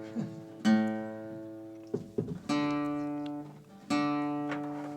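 Guitar strummed three times in single chords, each struck once and left to ring out and fade.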